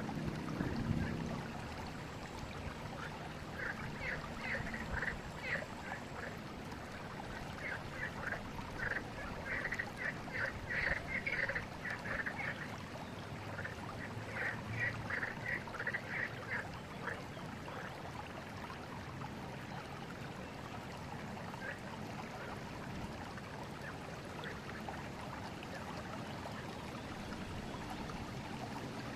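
River water flowing steadily, with several runs of rapid, chattering animal calls between about three and seventeen seconds in.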